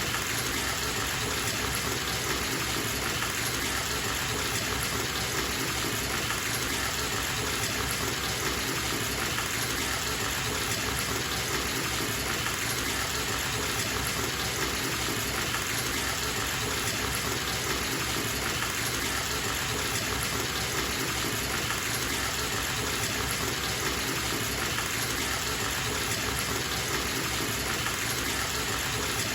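Bathtub tap running steadily into the tub: a constant, even rush of water.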